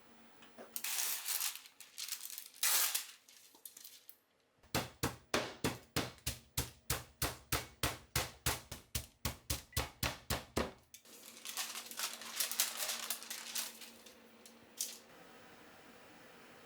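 Kitchen prep sounds: rustling, then a knife chopping steadily on a cutting board at about four strokes a second for around six seconds, then more rustling.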